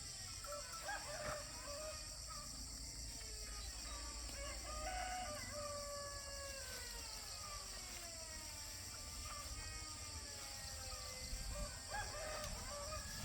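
Rooster crowing several times over a steady high-pitched hiss.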